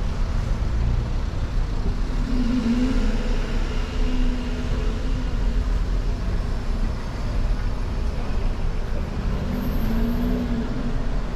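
Street traffic: a steady low rumble of cars running close by.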